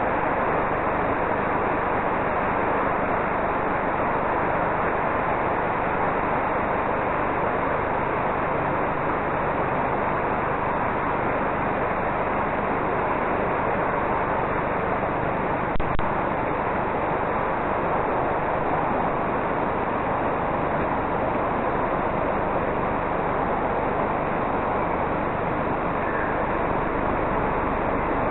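Steady, even hiss of outdoor background noise, with one sharp click about sixteen seconds in.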